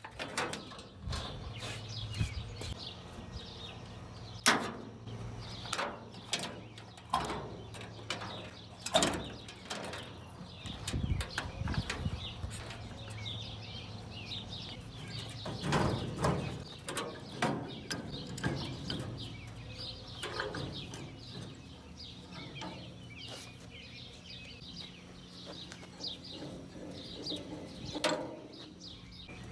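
Irregular metal clanks, knocks and scrapes of an old furnace being taken apart by hand, its panels and parts handled one after another, with a few sharper knocks standing out.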